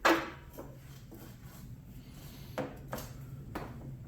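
Metal parts clanking and clicking during front-wheel fitting on a motorcycle: one sharp ringing clank at the start, then a few lighter clicks and knocks later on.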